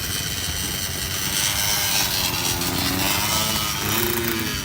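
Motocross bike engines running and revving, their pitch rising and falling.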